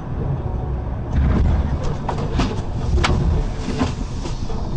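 Car driving, a steady low road and engine rumble heard inside the vehicle, with a run of about six sharp knocks and bangs starting about a second in.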